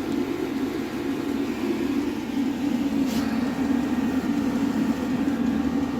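Chinese diesel air heater running steadily, its blower and burner making an even hum, with one faint click about three seconds in.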